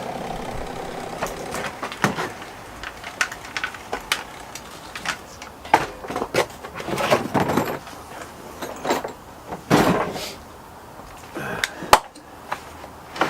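Hand work on a chainsaw and tools: irregular clicks, knocks and short scrapes or rustles of handled metal and plastic parts, with a sharp knock near the end.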